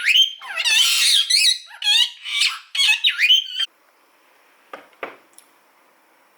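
A pet bird squawking loudly in a rapid series of high calls that bend up and down in pitch, cutting off suddenly about three and a half seconds in; two soft knocks follow near the end.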